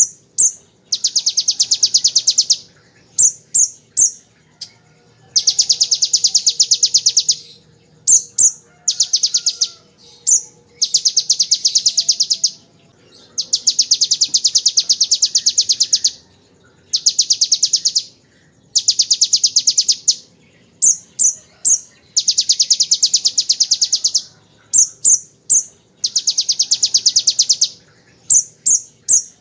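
A kolibri ninja sunbird singing ciblek-style 'ngebren' phrases: fast, even, machine-gun-like trills of 1 to 2.5 seconds, about eight of them, each broken off by two or three sharp high chips.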